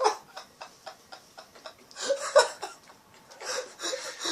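A person stifling laughter: quick, breathy pulses of suppressed giggling, with a couple of louder snickers about two seconds in and near the end.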